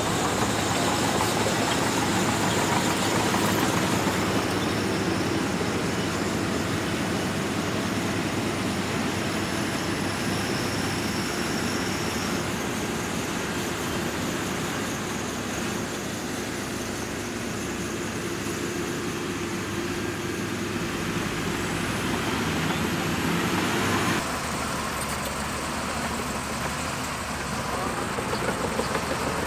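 Diesel engine of heavy earthmoving machinery running steadily, with a sudden change in the sound about four-fifths of the way through.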